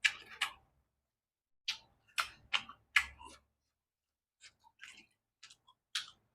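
Close-miked mouth sounds of someone eating: chewing with wet lip smacks and clicks, a dozen or so short irregular smacks.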